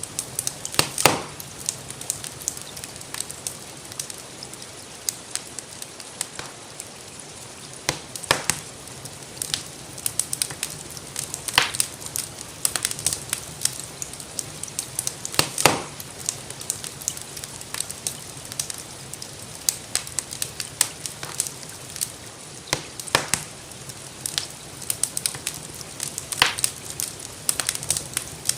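Wood fire crackling in a fireplace: many small irregular crackles and a louder sharp pop every few seconds, over a steady hiss of gentle rain.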